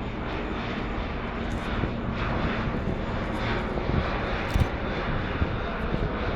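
Airbus A400M's four TP400 turboprop engines running as the aircraft makes a slow, low-speed pass, the sound swelling a little through the middle. A couple of short knocks come about four and a half seconds in.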